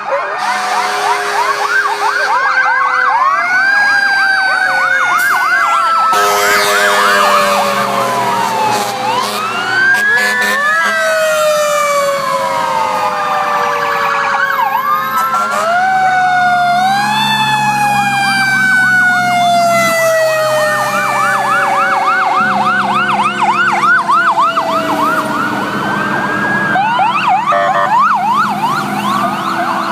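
Several fire truck sirens sounding at once: fast repeating yelp sweeps overlapping slower wails that rise and fall, with a steady low tone underneath.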